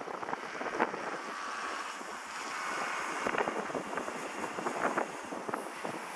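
Gusty wind buffeting the microphone, with the faint high whine of a Walkera V120D02 micro RC helicopter's motor and rotors in flight, its pitch dipping slightly near the end.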